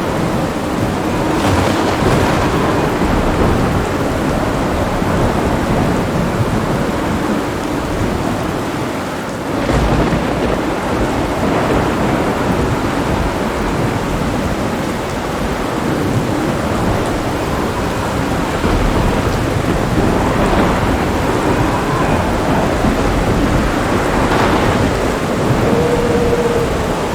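Heavy thunderstorm: steady heavy rain with thunder rumbling throughout, and sharper thunder cracks about ten seconds in and again near the end.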